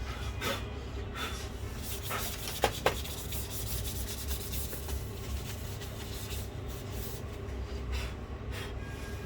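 Hands handling and scraping a MacBook Air's case and parts during reassembly, with scattered rubbing sounds and two sharp clicks close together about two and a half seconds in, over a steady low hum.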